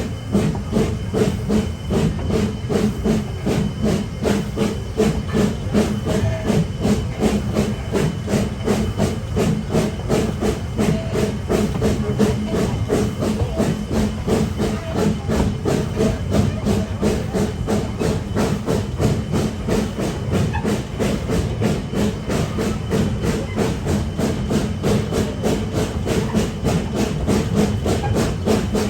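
Narrow-gauge steam locomotive working under steam: an even, rapid rhythm of exhaust chuffs over a steady hiss of steam.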